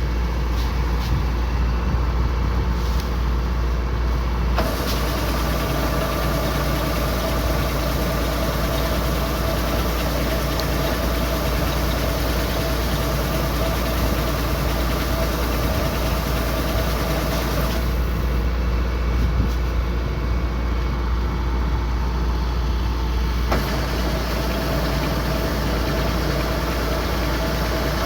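Kubota combine harvester running steadily, a low engine drone with a mid-pitched whine that cuts in about five seconds in, drops out around eighteen seconds and returns a few seconds later.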